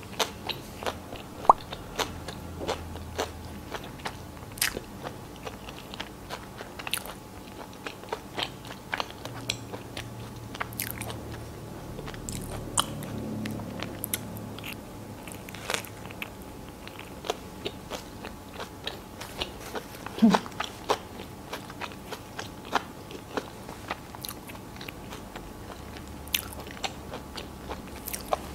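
Close-miked chewing of a chicken sandwich on soft white bread with lettuce: irregular small wet clicks and crunches from the mouth, with one louder sound about twenty seconds in.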